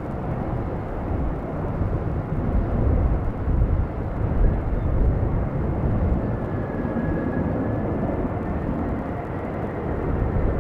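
Airbus A380-800 jet engines during landing: a heavy, steady low rumble, with a faint high whine coming in about six seconds in.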